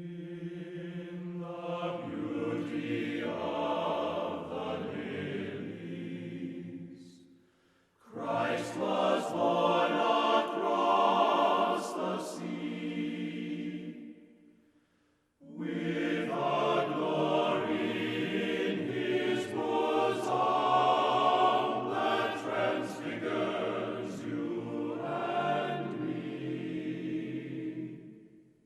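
Choir singing slow, sustained chords in three long phrases, with brief pauses between them.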